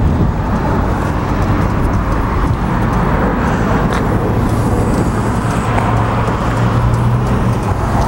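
2008 Triumph Rocket III Touring's 2300cc liquid-cooled inline three-cylinder engine idling steadily.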